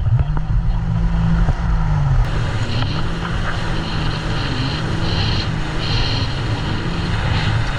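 Jet ski engine running hard under way, its note dipping and picking back up a few times as the throttle and load change, over the rush of water and air.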